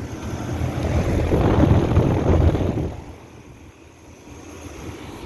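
Outdoor air-conditioner condenser unit running just after starting up, a steady fan and compressor noise. It swells over the first couple of seconds, then drops to a lower level about three seconds in.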